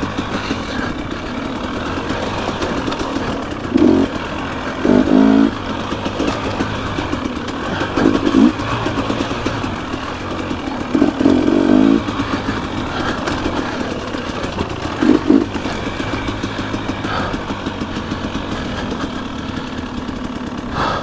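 Dirt bike engine running while riding trail, with short bursts of throttle about 4, 5, 8, 11 and 15 seconds in.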